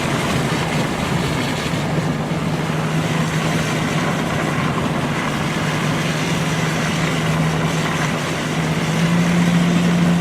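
A vehicle's engine running at a steady hum under a constant wash of road and rain noise, heard from inside the cab, growing slightly louder near the end.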